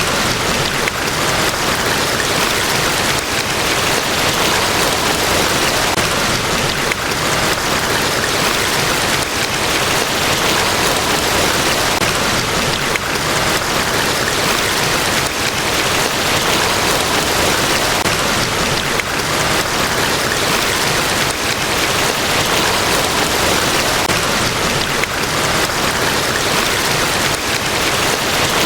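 Niagara Falls: a large waterfall's falling water making a steady, even rush that does not change.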